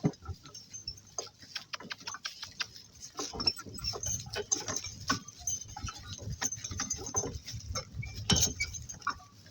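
Donkey-drawn work cart on the move: an irregular run of small knocks and clicks from hooves, harness and cart, with one louder knock near the end.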